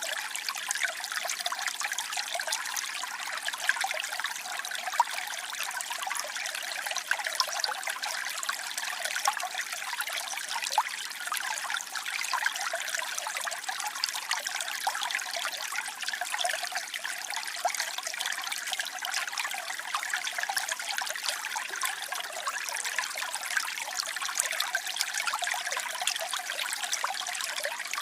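Falling water from a waterfall, splashing steadily, with a light, bright sound and hardly any low rumble.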